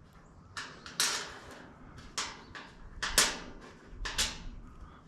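Small metal hardware, nuts being handled and sorted, giving a series of sharp, irregular clicks and clinks, about two a second.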